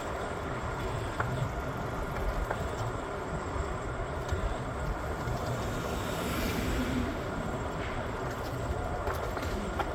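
Steady low rumble of a moving vehicle, with a few faint clicks and rattles.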